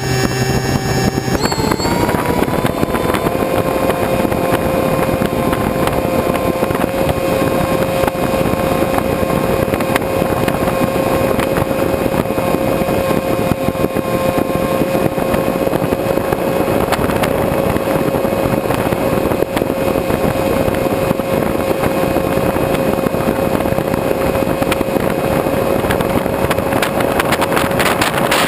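A vehicle engine running under a steady rush of wind and water-like noise, its pitch rising over the first couple of seconds and then holding steady.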